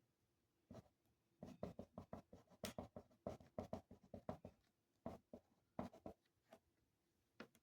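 Faint writing on paper: quick short strokes, densest in the middle, then a few scattered strokes with pauses between them.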